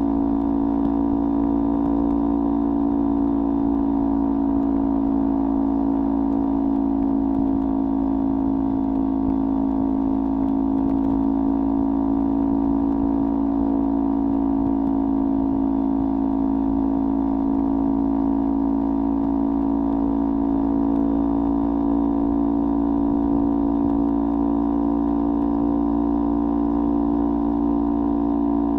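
Kawasaki Ninja 400 parallel-twin with a LeoVince aftermarket exhaust running at one steady engine note, with no revving, gear changes or pitch changes.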